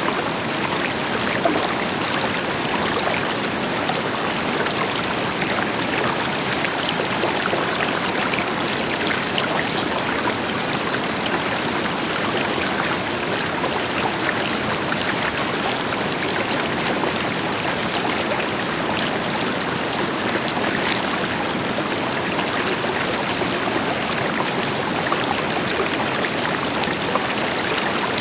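River water flowing steadily over rocks, a continuous rushing and babbling, with the deeper hiss of a waterfall blended in.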